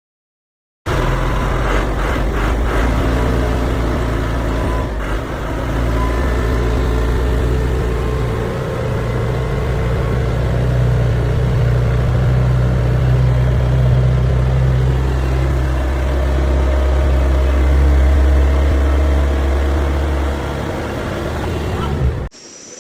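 Mini tractor engine running steadily at a constant speed. It cuts in suddenly about a second in and cuts off near the end.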